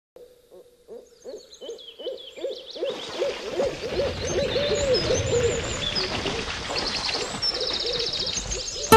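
Nature-sound intro: a bird hooting in quick repeated calls that grow louder, with high chirps above. From about three seconds in, a rushing noise swells under it, and the hooting fades out by about five seconds.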